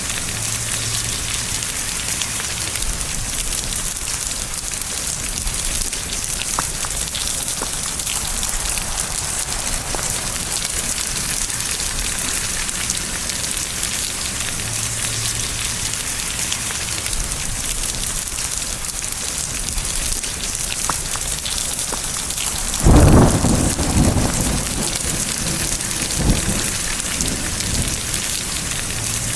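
Steady rain hissing on surfaces, with a loud clap of thunder and its rumble about three quarters of the way in, and a smaller crack a few seconds later.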